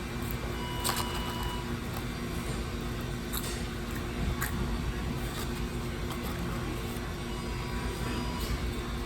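Steady low hum of restaurant ventilation or refrigeration equipment, with a few small clicks and rustles and a brief electronic beep about a second in.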